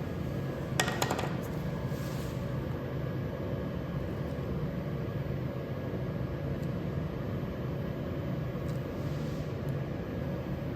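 A steady low machine hum, like a fan or compressor running. A short cluster of sharp clicks and knocks comes about a second in.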